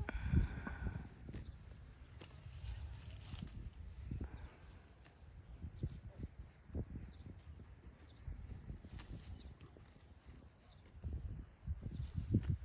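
Steady high-pitched chirring of crickets, with scattered soft low thuds and a short pitched call in the first second.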